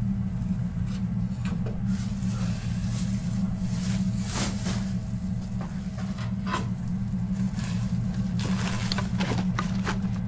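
A steady low rumbling hum, with scattered crunches and scrapes of someone moving through rubble and debris on a basement floor.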